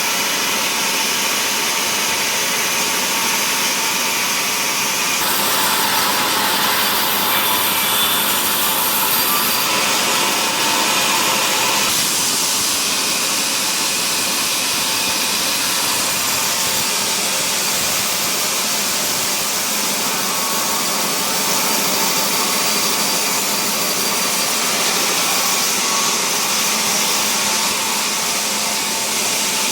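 Sawmill saw running steadily and cutting through mahogany, a continuous hissing machine noise that shifts slightly about five and twelve seconds in.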